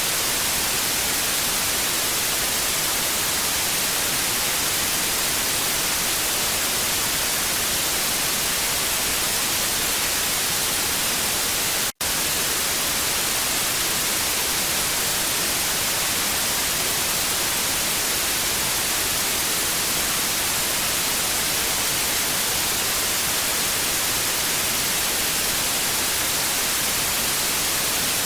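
TV static sound effect: a steady hiss of noise, brighter toward the high end. It cuts out for an instant about twelve seconds in, then goes on.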